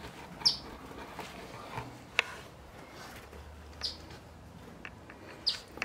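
A bird giving short, high chirps, three in the span, each a quick downward note, as it defends its nest inside the house. A single sharp click a little after two seconds in.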